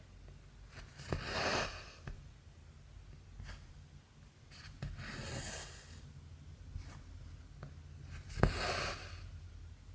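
Cotton embroidery thread drawn through cross stitch fabric: three rasping pulls of about a second each, with small clicks of the needle between them.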